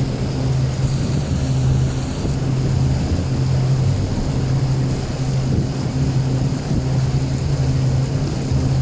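A boat's engine droning steadily at cruising speed, a constant low hum, with a continuous rushing noise over it.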